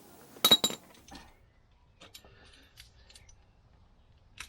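Two or three sharp metallic clanks with a brief ring about half a second in, then faint scattered clicks and taps of metal parts or tools being handled.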